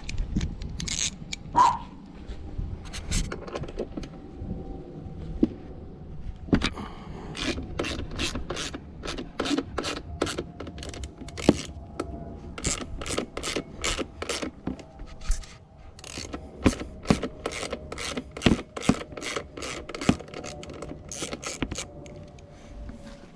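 Hand tools on a dirt bike: sharp metallic clicks and clatter, sparse at first, then a quick run of several clicks a second through most of the rest.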